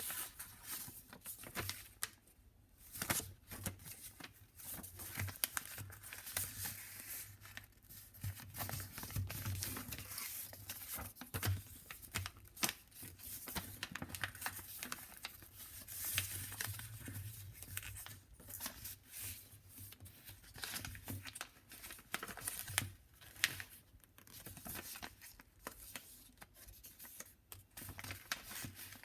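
A sheet of paper being handled and folded by hand, rustling and crinkling in irregular short bursts with frequent sharp clicks as it is creased.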